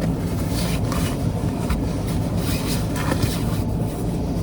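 Steady low rumble inside a parked car, with soft rustling as a sleeping bag is pulled on.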